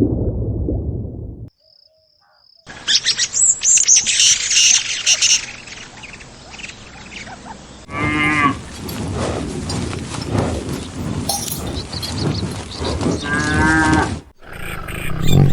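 Cows mooing across a few spliced clips, with two clear, drawn-out moos about eight and thirteen seconds in over a noisy farmyard background. There is a brief silent gap near the start where one clip cuts to the next.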